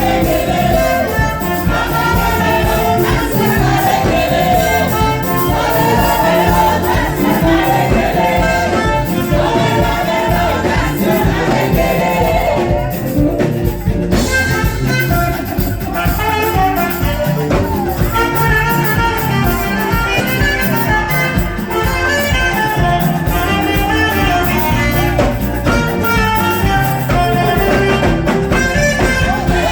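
Gospel praise music from a band with singing, a horn lead and a steady beat.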